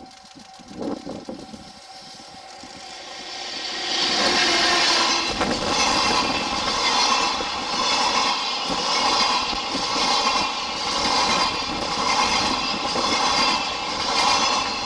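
ED75 AC electric locomotive hauling a rake of Chiki rail-carrying flat wagons past at close range. The sound builds over the first few seconds, then settles into steady wheel clatter over the rail joints at about one beat a second.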